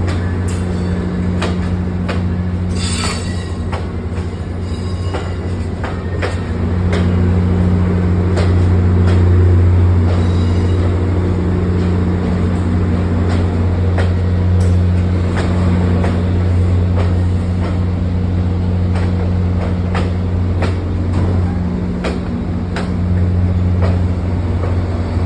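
Metro train running on rails: a steady low electric hum with irregular clicks and clacks of wheels over the track, swelling a little about seven seconds in.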